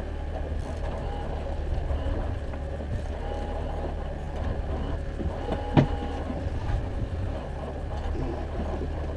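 Boat motor running steadily at trolling speed, a low even hum, with one sharp knock a little past halfway.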